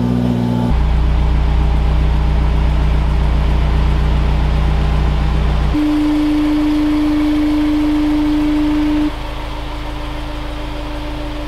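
Honda S2000's four-cylinder engine idling steadily just after a cold start, with no revving. Its tone shifts about a second in, and a strong steady drone stands out from about six to nine seconds in.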